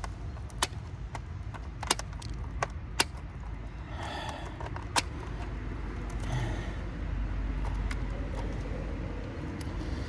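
Scattered sharp metallic clicks and clinks as transformer copper wire is handled and pulled free, over a steady low rumble.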